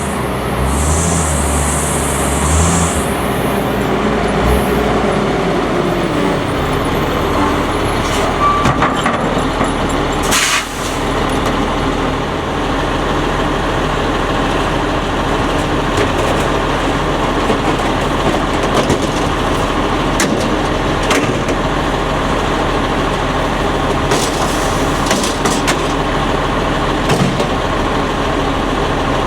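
Autocar front-load garbage truck's diesel engine running, louder for the first few seconds and then steady. A short sharp hiss of air comes about ten seconds in.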